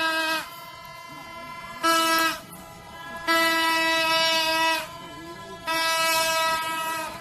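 New Year's toy trumpet horn (terompet) blown in separate steady, buzzy blasts: a short one, then two longer ones of about a second and a half, each sagging in pitch as it ends. The horn is being used as a bird scarer over crops.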